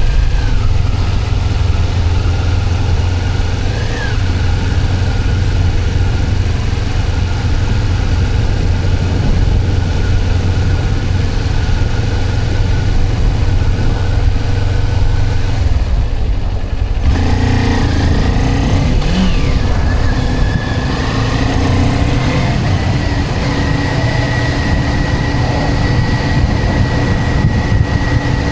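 Motorcycle engine running steadily while riding. About two-thirds of the way through the sound changes abruptly and a steady higher whine sets in.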